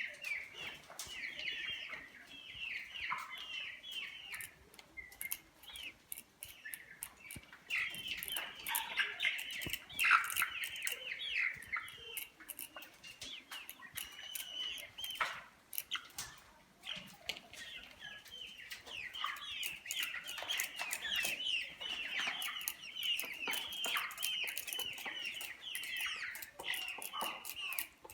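Brahma chickens calling in a cage: many high chirping calls overlapping almost without a break, with scattered sharp clicks and flutters among them.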